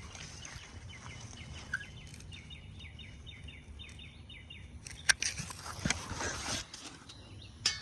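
A bird singing a run of quick, down-slurred chirps, about four a second, for a few seconds; after it, a few sharp clicks and rustles near the end.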